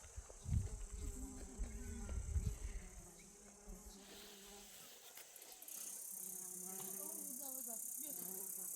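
A chorus of insects making a steady, high-pitched buzz, with a louder, wider hiss of insect noise joining about six seconds in. Low thuds come and go in the first few seconds.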